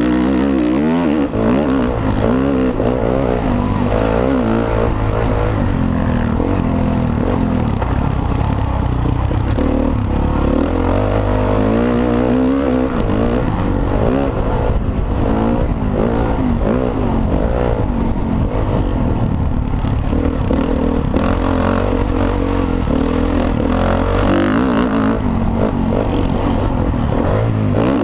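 Motocross dirt bike engine running hard and loud, revving up and down over and over as the bike is ridden around the track.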